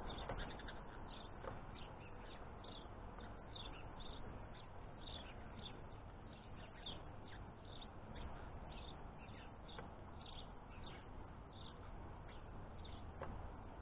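Faint bird chirps, short high notes repeated irregularly about every half second, over a steady background hiss.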